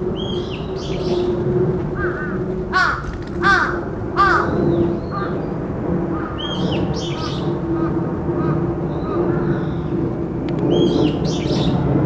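Woodland birds calling: a short high call phrase repeated three times, and three loud calls falling in pitch about three to four seconds in. The recordist takes the calling for alarm calls warning of an earthquake.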